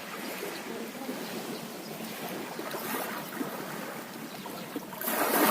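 Sea waves washing and lapping at the shore, with a louder wave rushing in about five seconds in.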